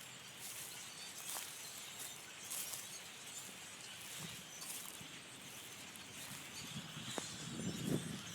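Chorus of a huge flock of blackbirds: many short calls and chatter blending into a steady, dense high-pitched din. Low whooshing surges come in near the end.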